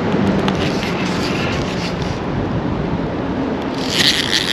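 Steady rushing noise of wind and flowing creek water. Near the end comes a brief burst of rapid, high-pitched clicking from a fishing reel while a hooked salmon is played.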